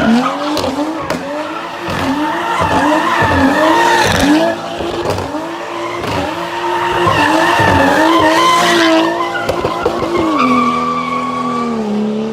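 Car engine revved over and over in quick blips, roughly two a second, then held at a steady pitch for the last couple of seconds before dropping away.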